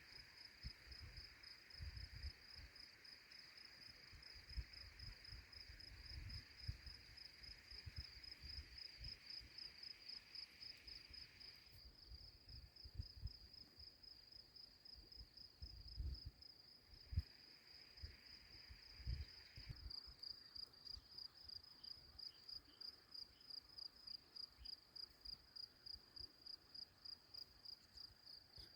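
Insects stridulating outdoors: a steady, rapidly pulsing high trill throughout. A second, lower insect buzz drops out partway through and returns briefly. Faint low thumps of wind or handling on the microphone run underneath.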